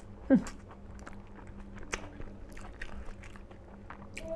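Close-miked chewing of smoked pork and rice, with wet mouth clicks and smacks, and one short falling vocal sound, an "mm", about a third of a second in.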